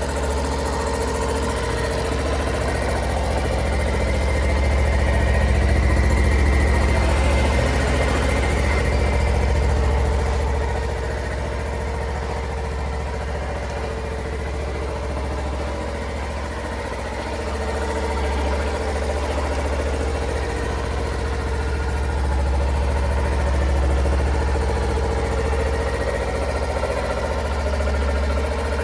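2008 Honda Little Cub's single-cylinder four-stroke engine idling steadily, swelling slightly in level a few seconds in and again later.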